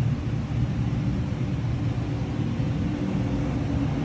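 Steady low machine hum and rumble, even throughout with no sudden sounds.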